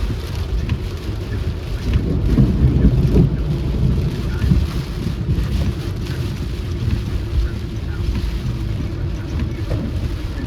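Rain and road noise from inside a moving car: a steady low rumble that swells for a second or so about two to three seconds in.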